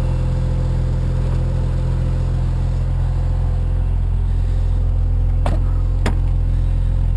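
Mazda RX-7's turbocharged rotary engine idling steadily, with two sharp clicks about five and a half and six seconds in.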